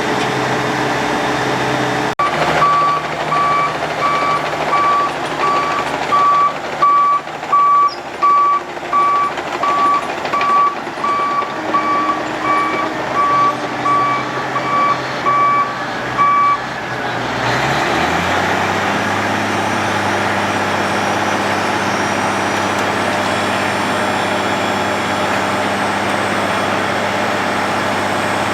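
Reversing alarm on a heavy road-works vehicle beeping regularly, a little over one beep a second, over a running diesel engine. The beeping stops about two-thirds of the way through, and a heavy diesel engine rises in pitch and settles into steady running.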